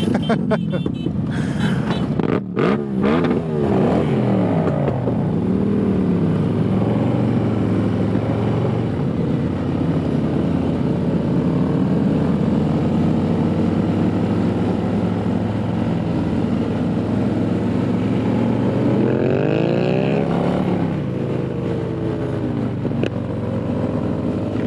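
A group of motorcycles riding together, heard from the middle of the pack: several engines running loud at once, their notes rising and falling as the bikes speed up and ease off.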